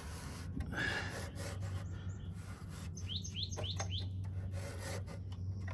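Fingers rubbing and scraping thick grime off the exposed coil of a portable air conditioner, over a steady low hum. A small bird chirps four quick notes in a row about three seconds in.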